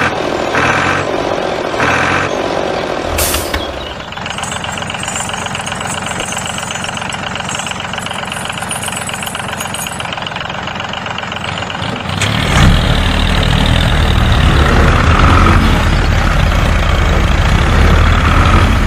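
Truck engine running steadily, turning louder with a deep rumble about twelve and a half seconds in.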